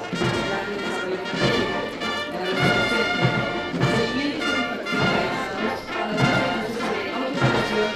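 Military brass band playing.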